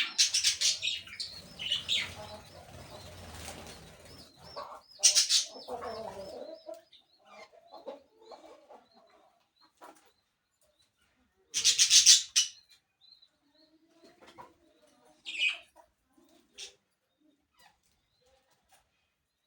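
Parakeets squawking in short, harsh, high-pitched bursts, the loudest about twelve seconds in, with softer chirps and a warbling chatter between. Wings flap and rustle through the first few seconds, and the birds go mostly quiet near the end.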